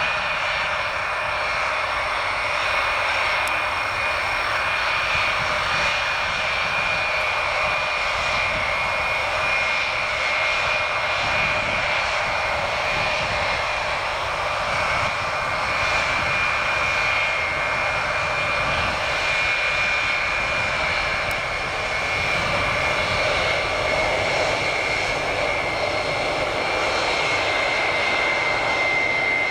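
Jet engines of a Boeing E-8C JSTARS, four TF33 turbofans, running steadily, with a high steady whine over the engine noise.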